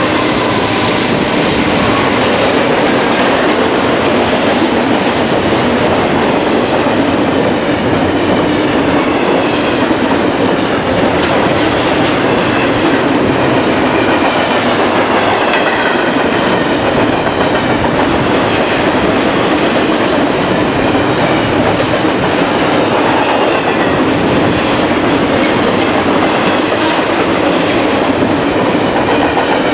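BNSF double-stack intermodal freight train's well cars rolling past close by: a loud, steady noise of steel wheels on rail, with faint wavering squeals coming and going.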